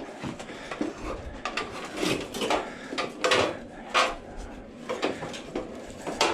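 Irregular metallic clicks, clinks and clanks of hand tools working on an old AC condenser unit's metal parts and wiring, with several louder knocks about two, three and four seconds in.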